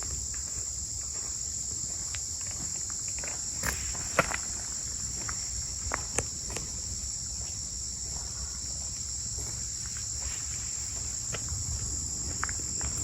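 Steady high-pitched chorus of insects in the woods, with scattered footsteps on a trail.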